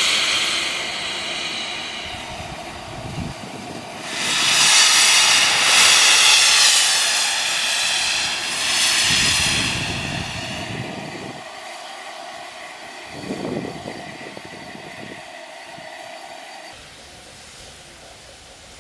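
Steam locomotive blowing off steam: a loud hiss at first that eases, surges again about four seconds in, then slowly dies away, with some low rumbles underneath.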